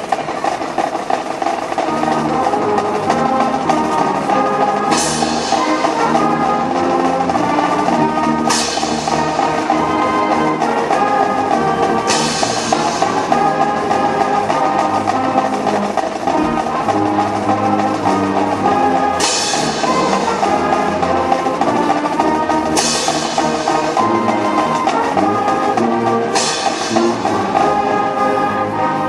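High school marching band playing the national anthem, brass over drums, with sharp crashes every few seconds.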